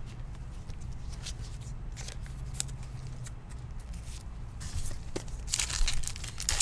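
Trading cards being handled and slid against one another, with scattered soft clicks. About five seconds in, a dense crinkling begins, a foil card-pack wrapper being handled and opened.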